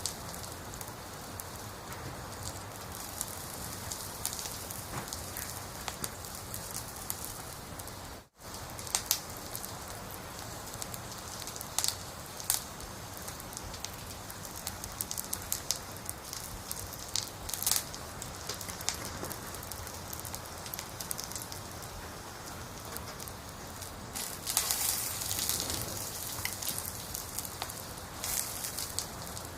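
Firewood burning in a campfire: a steady hiss with frequent sharp crackles and pops, thicker for a couple of seconds near the end. The sound drops out for an instant about eight seconds in.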